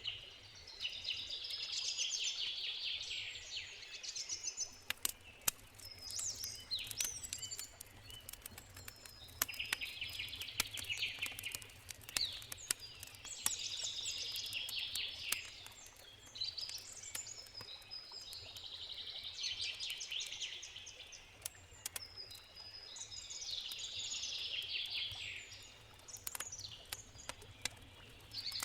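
A songbird singing a high, busy phrase of about two seconds, repeated every three or four seconds, over scattered sharp pops and crackles from a campfire.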